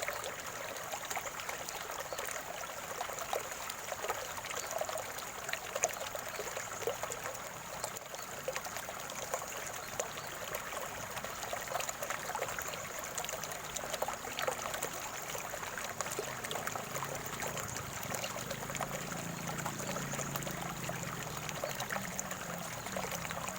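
Shallow flowing water trickling and gurgling steadily, full of small quick splashes. A faint low rumble comes in during the second half.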